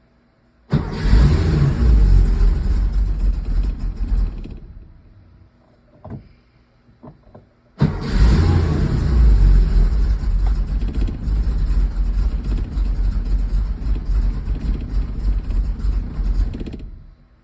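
Porsche 911SC's air-cooled 3.0-litre flat-six started twice. The first time it catches, runs briefly and dies away. The second time it runs rough for about nine seconds and then cuts off suddenly. The rough running is what the owner puts down to vacuum leaks.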